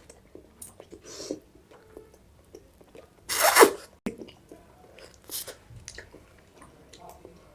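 Ice cream and kulfi being eaten: scattered soft mouth sounds of biting, licking and chewing, with one loud, short, breathy burst about three and a half seconds in.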